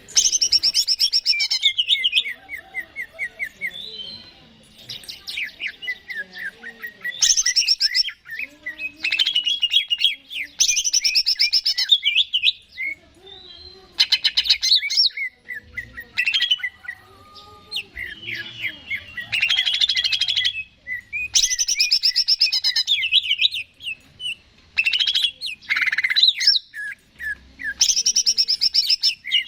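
Cucak ijo, a green leafbird, singing loudly. Its song is a run of rapid chattering trills and sweeping whistled notes, in bursts of a second or two with short breaks between them.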